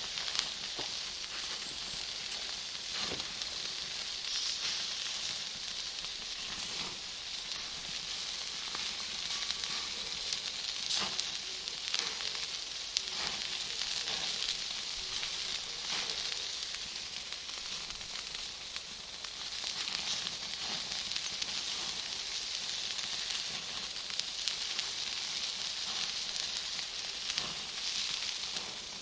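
Campfire of firewood and Iwate cut charcoal burning with a steady hiss and scattered sharp crackles and pops from the charcoal.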